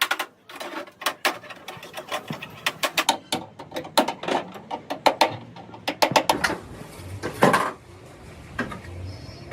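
Sharp metallic clinks and knocks in quick irregular runs, like metal tools striking and handling metal parts during truck repair work, with a longer, louder scrape or clatter about seven and a half seconds in.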